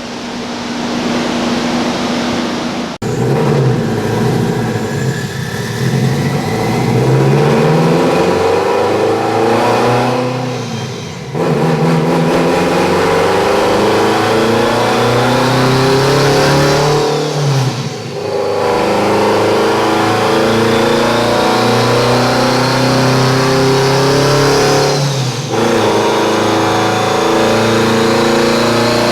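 Subaru WRX STI's turbocharged flat-four revving hard under load and climbing in pitch, with brief breaks in the sound about every seven to eight seconds, like gear changes. A high whistle rises along with the engine in the second half.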